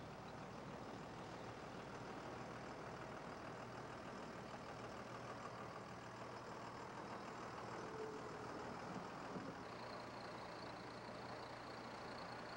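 Heavy truck engine idling steadily, with a faint high steady whine joining about ten seconds in.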